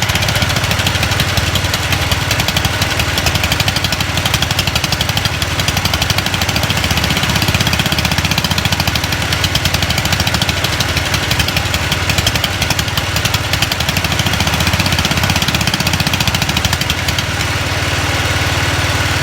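Small garden tractor engine running roughly with a rapid pulsing beat, barely running right; about seventeen seconds in it settles into a smoother, steadier run.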